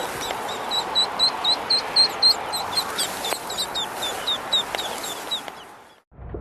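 Ducklings peeping: many short, high peeps, several a second, over a steady rushing background noise, fading out near the end.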